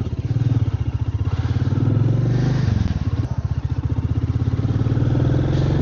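Royal Enfield Meteor 350's single-cylinder engine running as the motorcycle rides off. The engine note drops briefly about two and a half seconds in, then picks up again.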